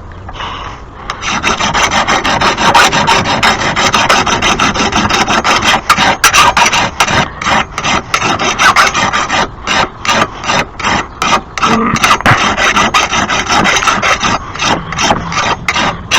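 Hand file rasping along a lawn mower blade, sharpening it by hand in quick back-and-forth strokes. The filing starts about a second in; from about halfway it breaks into choppier strokes, roughly two to three a second.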